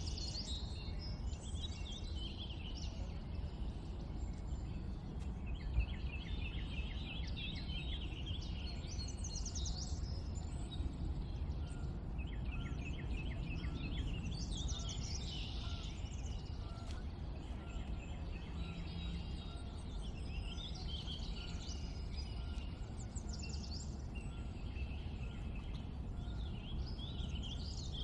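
Several wild songbirds singing and chirping at once, with rapid trills and whistled phrases overlapping throughout, over a steady low rumble of background noise.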